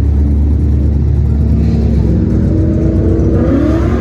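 A car engine with a loud exhaust runs with a steady low rumble, then revs up with a rising pitch in the last second or so.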